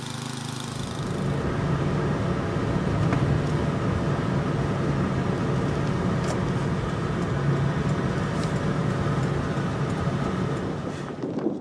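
An engine running steadily, a low hum that builds over the first couple of seconds and eases slightly near the end.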